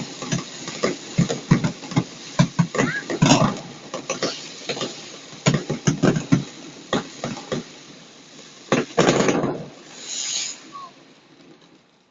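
Fireworks going off in a rapid, irregular barrage of sharp bangs and pops, with a longer noisy crackling burst about nine seconds in; the barrage thins out near the end.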